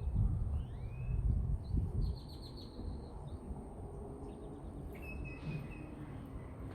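Wind buffeting the microphone in gusts, strongest in the first two seconds, with birds chirping: a few rising calls, a quick trill, and a short whistled note about five seconds in.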